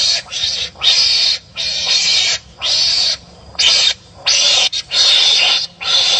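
Wild animals giving harsh, noisy barking calls one after another, roughly one to two calls a second, each under a second long with brief gaps between.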